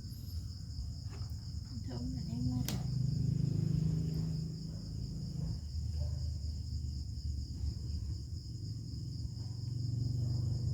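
A steady high-pitched insect trill over a low rumble, with a single sharp click about two and a half seconds in.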